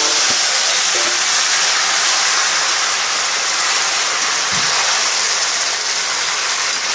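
Lemon pieces frying in a hot kadai, giving off a loud, steady hiss of steam and sizzling.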